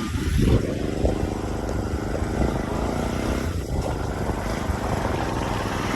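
Motor scooter engine with an aftermarket exhaust running steadily, a fast, even low putter.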